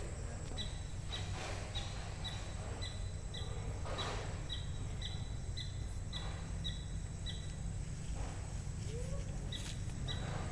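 A bird calling a short, high, slightly falling chirp over and over, nearly twice a second, pausing briefly past the middle before resuming. Under it runs a steady low rumble of outdoor background noise.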